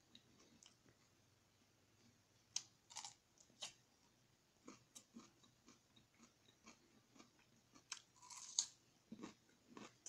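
A person chewing and biting into a potato close to the microphone: faint, irregular wet mouth clicks and small crunches, with a louder, longer crunch about eight seconds in.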